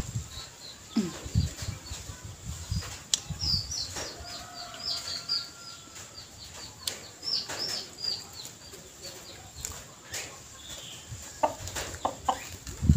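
Close mouth sounds of eating by hand: chewing and smacking, loudest near the start and at the end. In the middle a bird chirps a quick run of short high notes.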